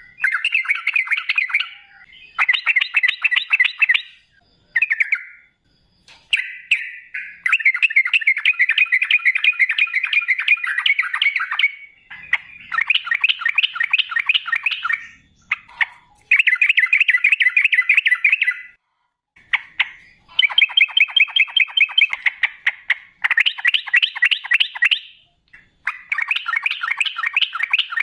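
Yellow-vented bulbul (trucukan) singing in long, rapid chattering phrases (ropel), each lasting one to four seconds with short pauses between.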